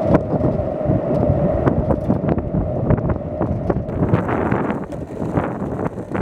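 Skateboard wheels rolling fast over pavement: a steady rumble with many small clicks and rattles, and wind buffeting the microphone.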